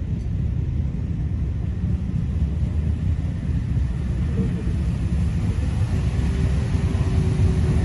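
A car engine running steadily, its sound deep and low.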